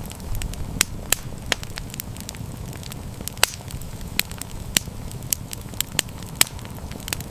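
Wood fire crackling, with irregular sharp pops and snaps, several a second, over a steady low rumble of flames.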